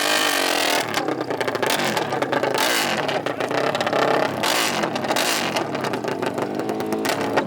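Off-road racing engines revving hard, held high at first. From about a second in they turn raspy and crackling, the pitch climbing and dropping again and again as they accelerate and shift.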